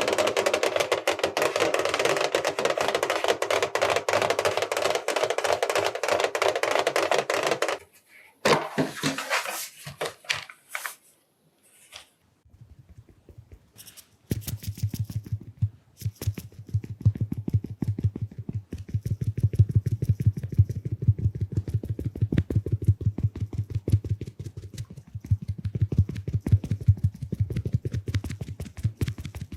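Close-miked makeup ASMR: a dense, fast rustling hiss for about eight seconds, then after a short pause rapid soft dabbing of a small makeup puff sponge on the microphone, many dull taps a second.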